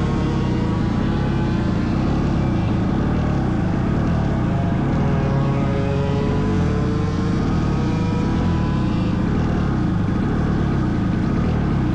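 Small 100cc racing engines running at speed, their pitch rising and falling as they rev through the corners, over a heavy steady rumble.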